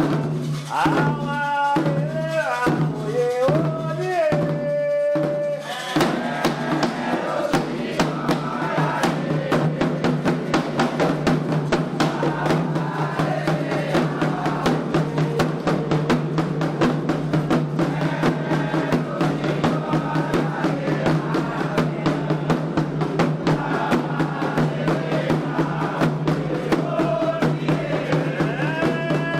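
Candomblé ritual music. A lone voice sings a gliding line that ends on a long held note, and about six seconds in, fast, dense atabaque hand-drumming and group singing take over and keep going.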